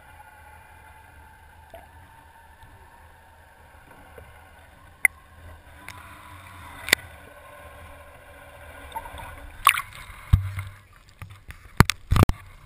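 Steady low hum of a boat motor with water gurgling, heard through a camera mounted on a fishing net. Two sharp clicks about five and seven seconds in, then a cluster of loud knocks and thumps over the last three seconds.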